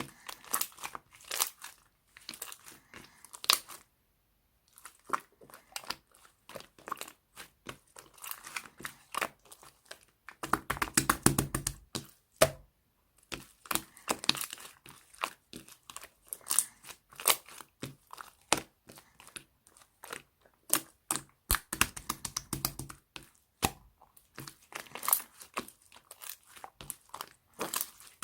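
Slime being squished, poked and stretched by hand, a dense run of sticky clicks, pops and crackles, with a brief pause about four seconds in.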